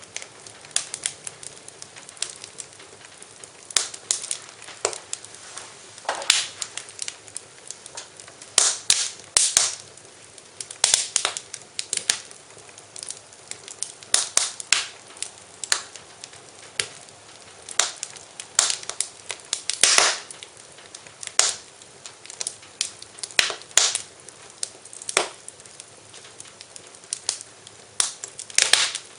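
Wood fire crackling in a fireplace: irregular snaps and pops, some sharp and loud, over a soft steady hiss.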